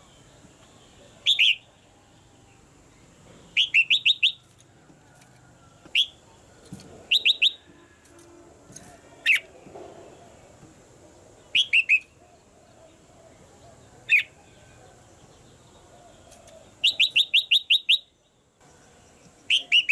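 Red-whiskered bulbul calling: short, sharply falling chirps, single or in quick runs of three to seven, repeated every couple of seconds. A faint steady high-pitched tone runs underneath and drops out briefly near the end.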